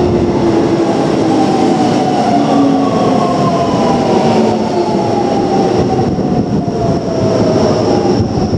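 Keio Line electric train running, with a loud rumble and a motor whine that falls slowly and steadily in pitch, as when the train slows down.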